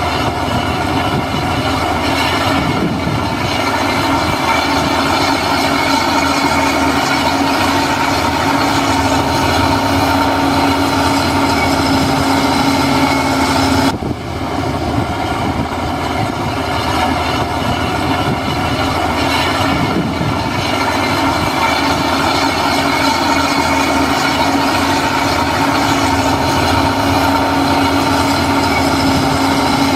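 Heavy diesel construction machinery running steadily under load, with a steady whine over the engine noise. The sound breaks off briefly about 14 seconds in.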